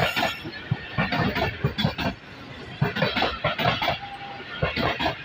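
Passenger coaches of an express train running through a station without stopping, the wheels rumbling and clattering irregularly over rail joints and points.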